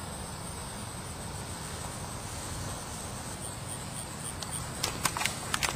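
Outdoor ambience: a steady low hiss with a faint, high insect drone. A few sharp clicks come near the end.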